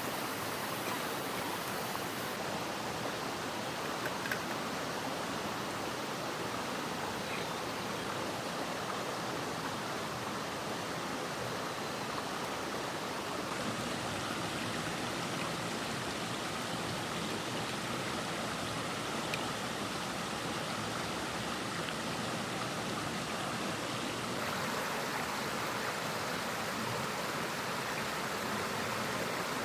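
Steady rushing of a mountain stream near its headwaters, with a few faint clicks now and then.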